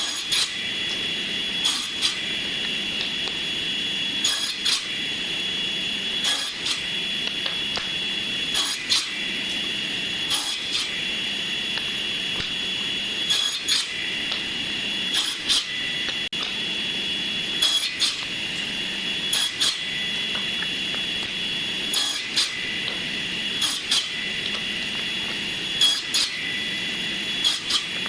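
Electric woodworking power tool running with a steady high whine as it works wood, with a sharp knock about every two seconds.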